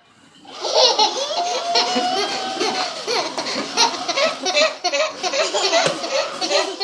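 A baby laughing hard in continuous bouts, starting about half a second in.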